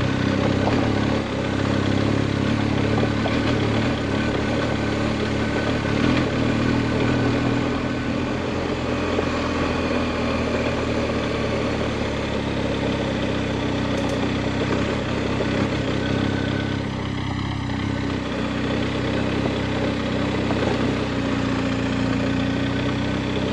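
Large adventure motorcycle's engine running steadily at low revs while the bike rides along a dirt road.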